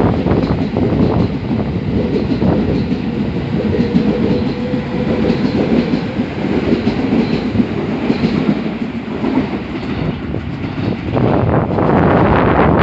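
A train running past on the station tracks, wheels clacking over rail joints amid a heavy rumble. It fades about eleven seconds in, and wind buffeting the microphone takes over.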